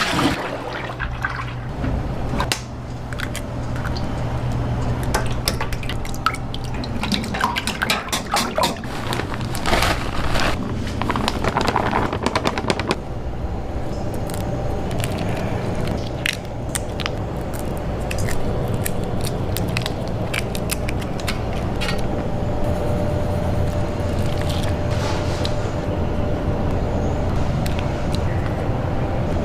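Food-preparation noises: many short clicks and knocks over a steady low hum, with liquid sounds like pouring or splashing water.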